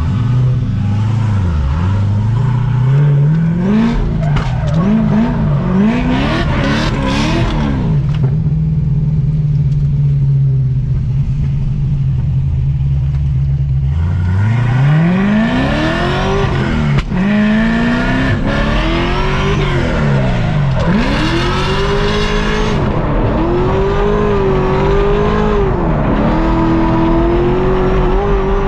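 Supercharged LS7 V8 of a C6 Corvette Z06 on a drift run, revving up and down. A few quick rev rises are followed by several seconds held steady. From about halfway come repeated sharp climbs and drops in revs, ending on a high held note.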